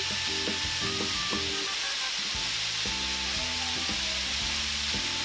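Ground beef sizzling in a frying pan as it browns, with a utensil stirring and breaking up the meat. Background music with changing low notes plays underneath.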